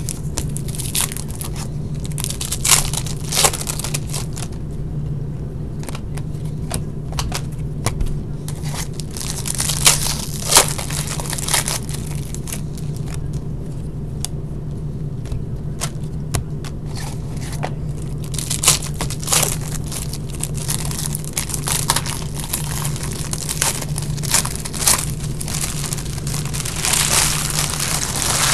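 Packaging of hockey card boxes and packs being handled and opened: irregular crinkling, tearing and crackling of wrapper and cardboard over a steady low hum.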